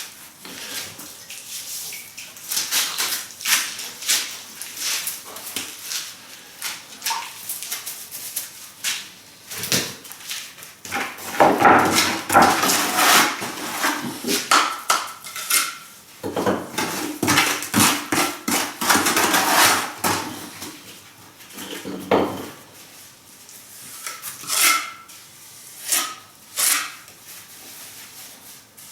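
Hand masonry work with flagstone and cement mortar: a trowel scraping and working the mortar in two longer stretches, among many sharp clinks and knocks of stone pieces being handled and set.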